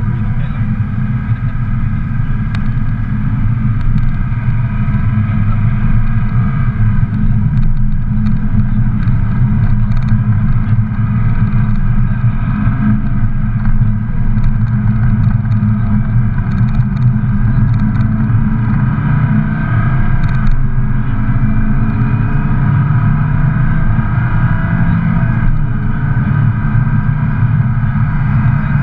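Lamborghini Gallardo Balboni's V10 engine pulling under acceleration, its note climbing slowly and dropping back at two paddle-shift upshifts in the second half, over a steady low rumble.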